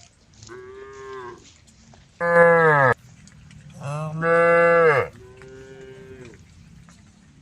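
Cows mooing: four long calls, two fainter ones near the start and about two-thirds in, and two loud ones in between whose pitch drops at the end.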